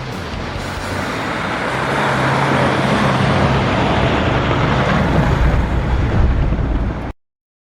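Motor vehicle running, engine and road noise growing louder over the first few seconds, then cut off abruptly near the end.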